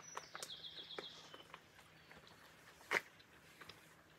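Quiet eating: faint chewing and mouth noises from a bite of pancake, with a sharp click about three seconds in. A short, high, chirping trill sounds in the background about half a second in.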